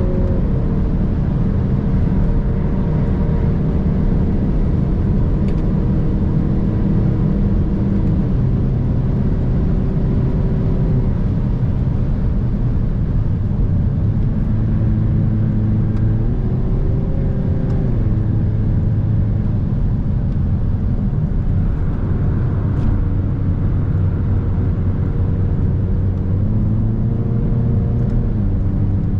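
Hyundai i30 N's 2.0-litre turbocharged four-cylinder engine running hard on a lap. Its pitch steps down and back up several times with the throttle and gear changes, over a steady low rumble of road and tyre noise.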